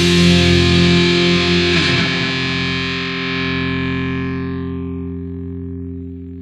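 Rock music: a final chord on distorted electric guitar ringing out and slowly fading away as the song ends.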